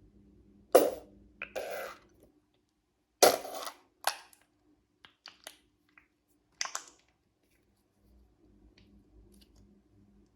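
A stress toy being cut open and handled: a few sharp crunches and snips, with small clicks between, over a faint steady hum.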